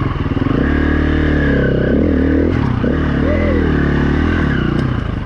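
Four-stroke single-cylinder dirt bike engine (2016 KTM 350 EXC-F) running under load on the trail, its pitch rising and falling several times as the throttle opens and closes.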